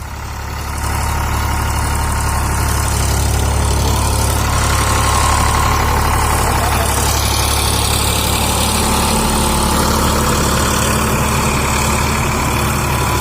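Sonalika DI 42 RX tractor's diesel engine running steadily with a deep, even hum, growing louder over the first second.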